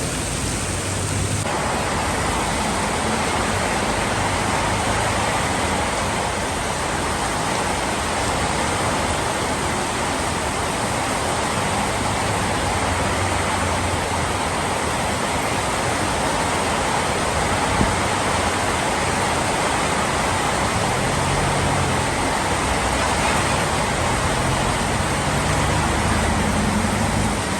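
Heavy tropical rain pouring down in a storm: a loud, steady, dense hiss with a low rumble swelling and fading now and then. One sharp tap a little past halfway.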